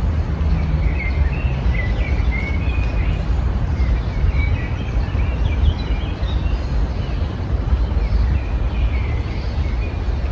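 Small songbirds chirping and twittering in short, high phrases over a louder steady low rumble.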